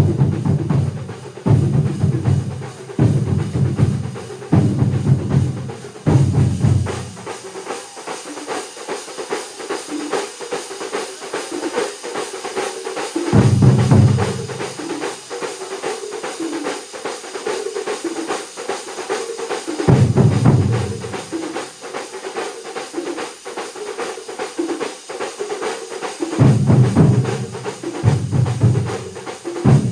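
Large drum ensemble playing together in a fast, dense, continuous rhythm. Deep bass drums join in heavy passages at the start, about halfway through, about two-thirds through and again near the end, with only the lighter drums carrying the beat in between.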